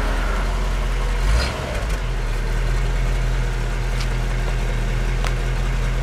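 1964 Ford Thunderbird's V8 idling steadily with a low hum, with a brief low bump about a second and a half in.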